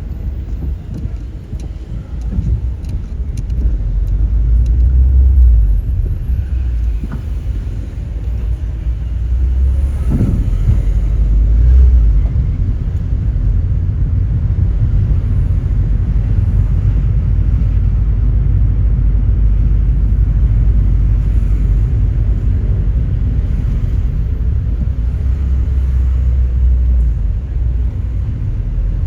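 Car driving: a steady low rumble of engine and road noise, swelling louder twice in the first twelve seconds.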